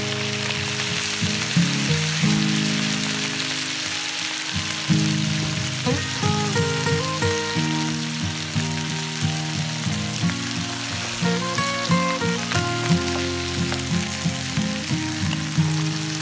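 Pig trotter pieces sizzling steadily in hot oil in a wok, with Shaoxing wine spooned in at the start, under background music.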